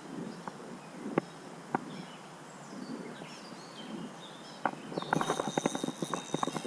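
A few scattered clicks and knocks, then about five seconds in an ultralight spinning reel starts being cranked: rapid clicking with a steady high whine.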